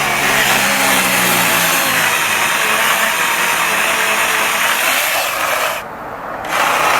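Bosch angle grinder with a mini chainsaw attachment running and cutting into a thick tree trunk, its motor overloaded to the point of overheating and smoking. The noise dips briefly about six seconds in, then picks up again.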